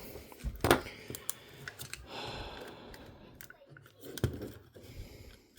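Small clicks and taps of hand tools and small plastic and metal parts being handled while a portable MiniDisc recorder is taken apart, with a sharper knock a little under a second in and another about four seconds in, and a soft rustle between them.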